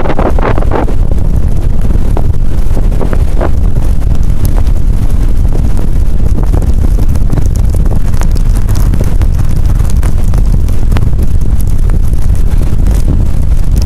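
Blizzard wind buffeting the camera's microphone: a loud, continuous low rumble that rises and falls with the gusts.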